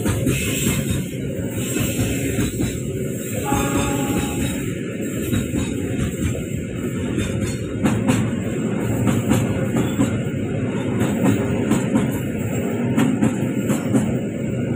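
A train running past on the track, a steady, continuous sound of wheels on rails.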